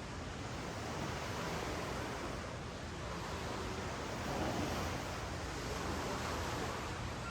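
Ocean waves washing up the beach, a steady surf wash that swells a little about four seconds in.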